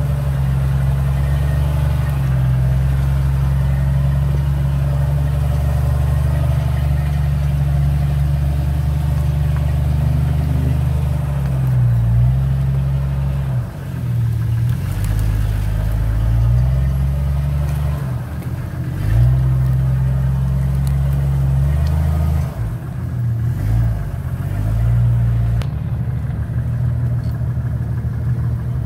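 Jeep Cherokee XJ engine pulling the vehicle along a dirt trail at low speed, its pitch rising and falling repeatedly as the throttle is worked over the ruts.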